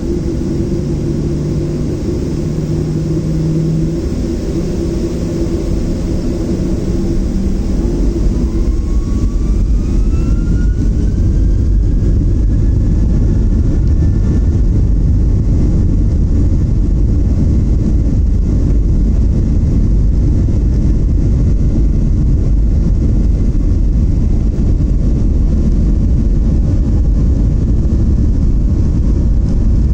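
Boeing 737-700's CFM56-7B engines spooling up to takeoff thrust, heard inside the cabin: about eight seconds in, a whine rises in pitch and then holds steady over a loud, steady rumble of the takeoff roll.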